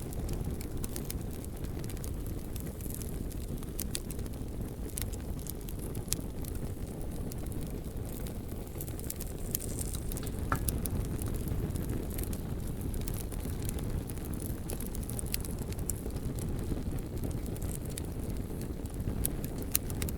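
Bonfire burning with a steady low rumble of flames and frequent sharp crackles and pops from the burning logs scattered throughout.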